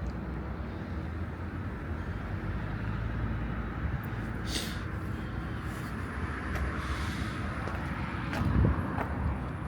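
Outdoor car park ambience: a steady low rumble of traffic with wind on the microphone, a brief hiss about halfway through and a few light knocks near the end.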